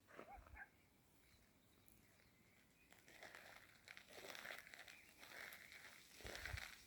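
Near silence, with faint rustling and small clicks starting about three seconds in.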